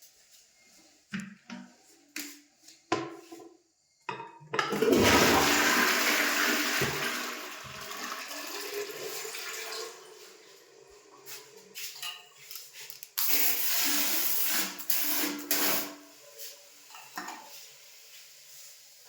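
A few clicks, then a toilet flushing: a loud rush of water that eases into a quieter steady run. A second loud rush starts suddenly later and cuts off after about three seconds.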